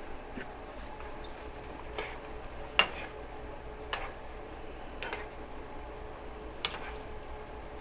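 A utensil clicking and scraping against a pan as sweet and sour sauce is stirred while it heats toward a boil: about five sharp clicks spread through, the loudest about three seconds in, over a steady faint hum.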